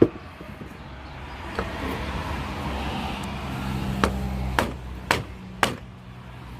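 Hammer striking a punch on a push mower wheel to drive out the bearing: a sharp strike at the start, a lighter one, then four strikes about half a second apart from about four seconds in. A steady low hum runs underneath.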